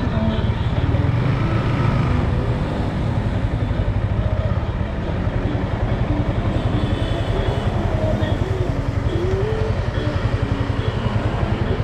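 Motorcycle engine running steadily while riding, a fast pulsing rumble, with a few short rising and falling tones near the end.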